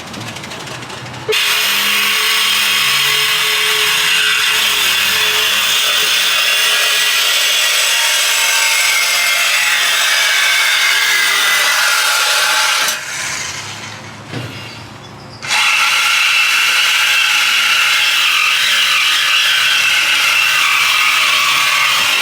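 Power saw cutting through the exhaust pipe to remove a muffler. It runs steadily, stops for about two seconds around the middle, then starts cutting again.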